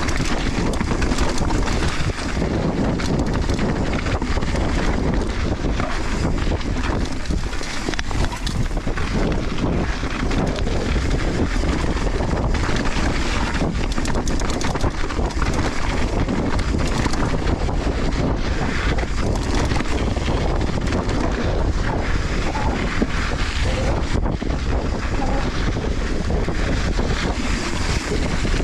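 Wind rushing over a GoPro action camera's microphone during a fast mountain bike descent, with steady tyre noise on dirt and frequent short clattering knocks from the bike over rocks and roots.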